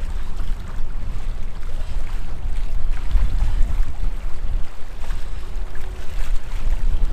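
Strong gusty wind buffeting the microphone: a loud, deep rumble that swells and dips.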